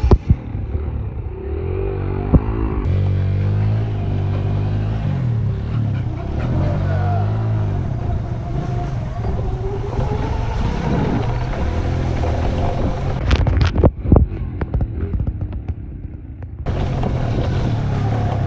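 Small dirt bike engines running during a race, their pitch rising and falling as the throttle opens and closes. A cluster of sharp knocks about three quarters of the way through.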